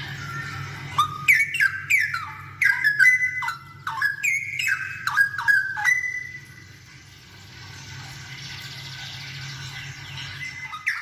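Straw-headed bulbul (cucak rowo) singing: a loud phrase of rich, gliding whistled notes lasting about five seconds, after which the song stops.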